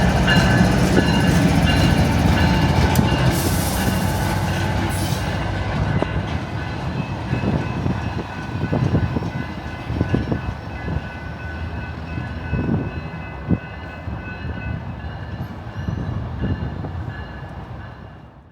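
Slow-moving BNSF track geometry train passing: a low locomotive and railcar rumble with occasional wheel knocks over rail joints. It fades steadily toward the end.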